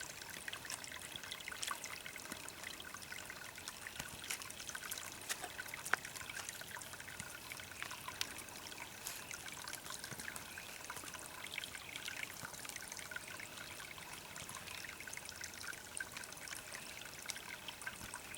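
Steady, fairly faint trickle of water with scattered small ticks, like water running and dripping.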